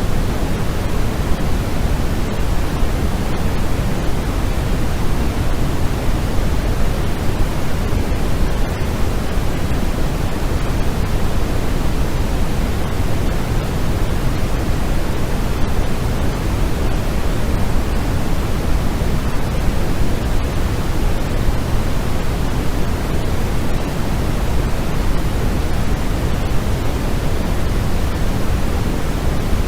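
Steady white noise of the kind played for sleep: an even, unbroken hiss, heavier in the low end than the high, that never changes.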